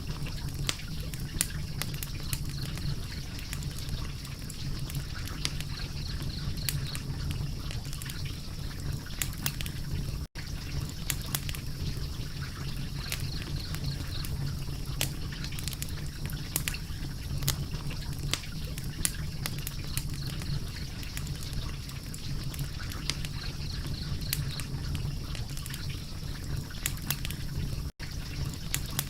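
Wood fire crackling, with frequent irregular sharp pops and snaps over a steady low rumble. The sound cuts out for an instant twice, about ten seconds in and near the end.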